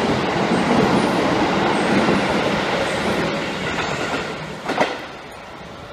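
Electric train passing at speed, its running noise steady at first and then dying away. There is a brief louder burst near the end, followed by a quieter run of train sound.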